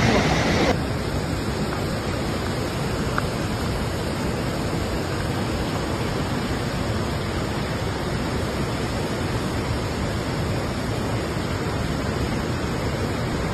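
Steady rushing of floodwater, an even unbroken noise. It becomes a little quieter and duller about a second in.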